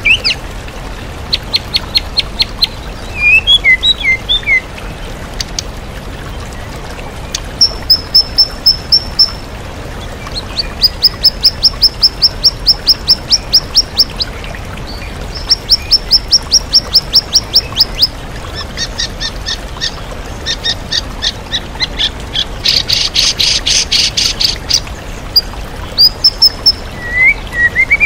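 White-rumped shama (murai batu) singing a varied mimicking song: strings of rapid repeated high notes and trills, with a dense buzzy burst near the end, over the steady rush of a waterfall.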